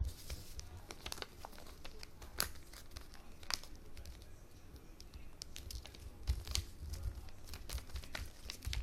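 A sheet of paper being folded and creased by hand: irregular rustling and crinkling with scattered sharp crackles.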